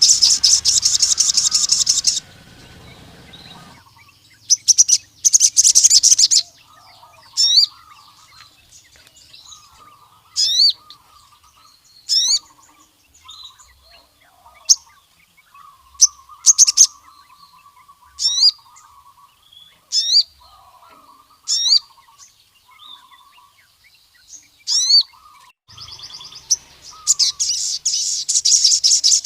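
Male ruby-cheeked sunbird singing: a loud, rapid high trill at the start and again near the end, with single sharp high notes about every one to two seconds in between. Fainter, lower twittering runs underneath.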